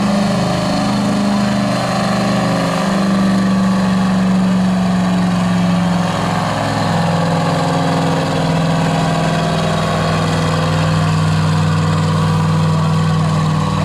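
Diesel pickup truck engine running steadily at high revs under load while pulling the sled. Its pitch steps slightly lower about six seconds in, then holds.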